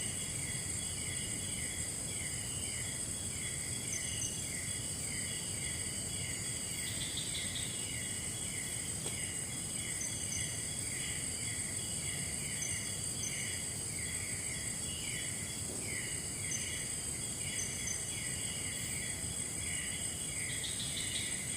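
Forest insects chorusing: a steady high-pitched drone with short falling chirps repeating about twice a second, over a low rumble of background noise.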